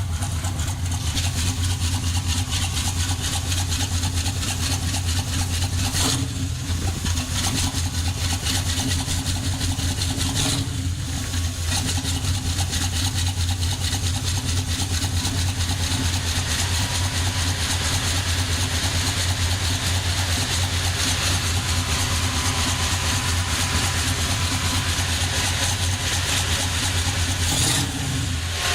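Chevrolet 350 small-block V8 idling steadily with a low, even rumble.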